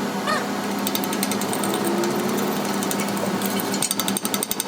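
Power tool rattling, with a fast run of regular taps in the last second.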